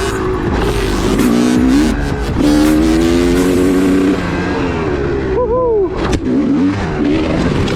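2002 Honda CR250 two-stroke motocross engine revving up and down under the rider's throttle, with a brief drop in revs and a quick rising blip about two-thirds of the way through.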